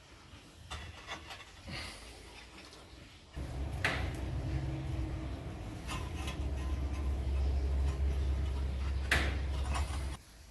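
Knocks, clinks and rubbing of pottery and wooden kiln furniture being handled and set in place while a wood-fired kiln is loaded for a biscuit firing. A few faint clicks at first, then from about a third of the way in a low rumble with several sharp knocks, which stops suddenly near the end.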